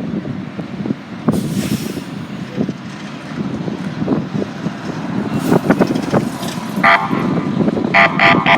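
Fire engine running and moving off with a rumbling engine and rattles. A brief hiss of air comes about a second in, and air horn blasts near the end signal it is going out on an emergency run.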